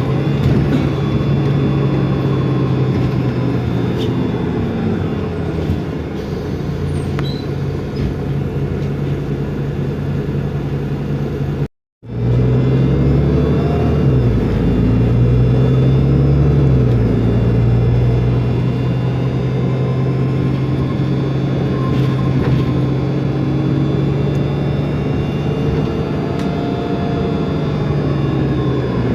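Otokar Kent LF city bus's Ford Ecotorq diesel engine running with its Voith DIWA automatic transmission, a steady drone. There is a short break in the audio near the middle; a few seconds after it the engine note rises and falls once, as the engine speeds up and settles.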